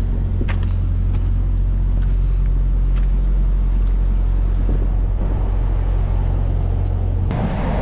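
A heavy tow truck's engine running with a steady low hum. About seven seconds in, the hum gives way to a rougher, noisier rumble.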